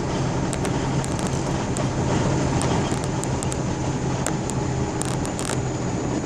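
Vehicle engine running steadily at a constant pace while driving over bumpy snow, with scattered sharp clicks and knocks.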